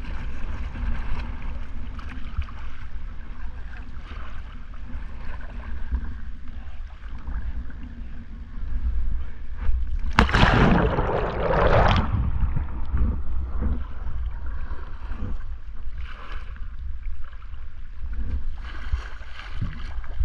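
Water around a kayak being rolled, over a steady low rumble like wind on the microphone. About ten seconds in comes one loud splash lasting a couple of seconds, as the boat and paddle churn the water during the roll, followed by smaller splashes.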